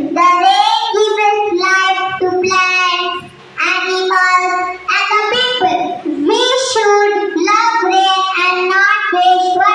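Children singing a song with held notes, phrase by phrase, with short breaths between phrases.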